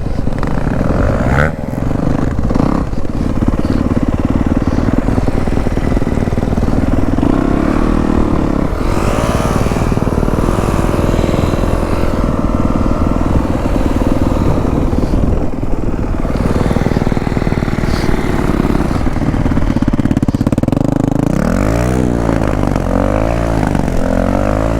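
Dirt bike engine running while ridden, its pitch shifting with the throttle, with several quick rev-ups and drops near the end.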